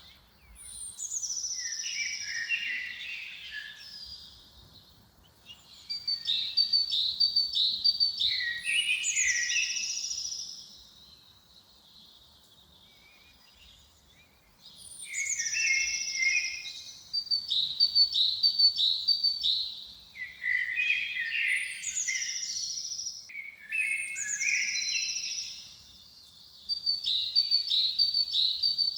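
Songbird song in a forest, one short phrase repeated every few seconds. Each phrase is a run of quick high notes ending in a falling flourish, with a pause of several seconds about halfway through.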